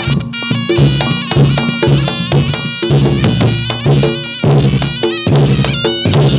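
Javanese reog-style ensemble music for a jathilan dance: repeated drum strikes and percussion under a sustained melody on a pitched instrument.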